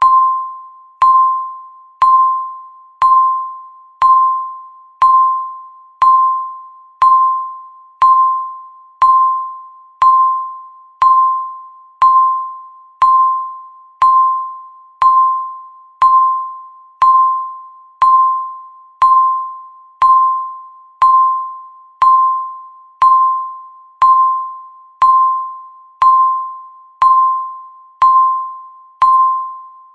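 Countdown timer's tick sound: a short, bell-like electronic ping once a second, each starting with a click and dying away before the next, at an even, steady pace.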